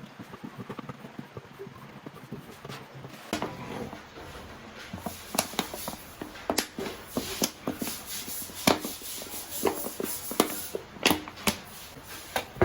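Irregular clicks and knocks of kitchen handling (cupboards, pots and utensils) over a steady background hiss, growing busier a few seconds in.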